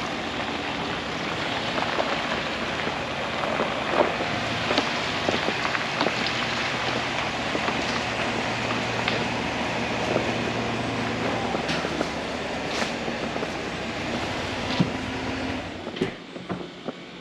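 A vehicle running: a steady rumble of engine hum and road noise with scattered small clicks and knocks. It drops off sharply near the end, leaving a few separate clicks.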